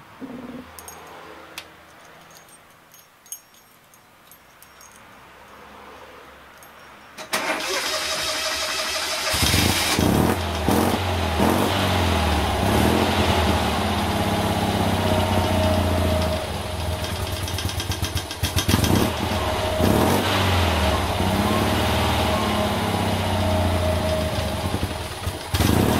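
Toyota Sports 800's air-cooled flat-twin engine, quiet apart from a few light ticks, then cranked and started about seven seconds in. It catches after about two seconds and runs at idle, rising and falling now and then. The owner says the idle has become steady.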